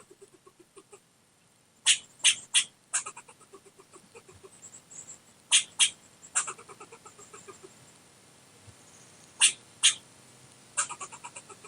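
Animal calls: short, sharp squawks in quick groups of two to four, with a faint, rapid low chatter between the groups.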